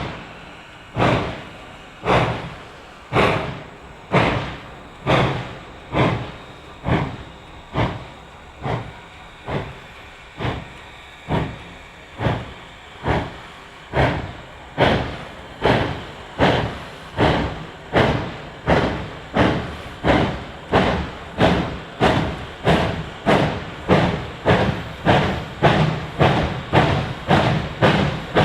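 Exhaust beats of Reading & Northern 425, a 4-6-2 Pacific steam locomotive, pulling a train and gathering speed. The sharp chuffs quicken from about one a second to over two a second, over a steady low rumble.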